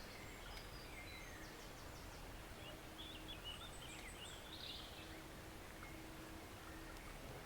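Faint, steady rush of a small forest stream, with songbirds twittering and chirping over it between about one and five seconds in.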